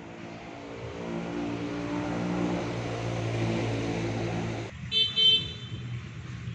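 A motor vehicle's engine running and growing louder, cut off abruptly about three-quarters of the way through, followed by two short horn beeps.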